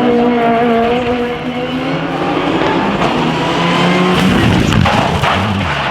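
Drift car engine running hard at high revs with tyre noise, the pitch slowly sagging and then dropping lower over the last two seconds.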